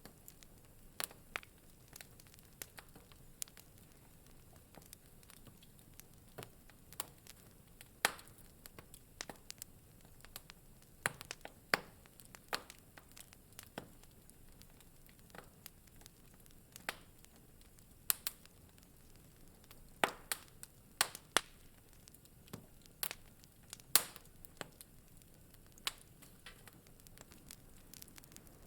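Wood fire crackling in a fireplace: irregular sharp pops and snaps over a faint low hiss.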